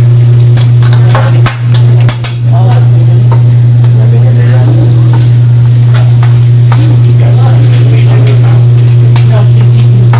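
Food sizzling and frying on a hot griddle, with metal utensils clicking and scraping against the cooking surface, over a loud, steady low hum.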